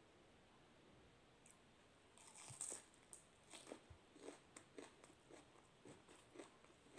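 Faint mouth sounds of someone eating by hand: a cluster of crisp bites about two seconds in, then steady crunchy chewing, about two crunches a second.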